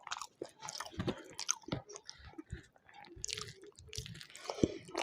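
Close-up chewing and lip-smacking of someone eating a meal, with irregular wet smacks and small crunches.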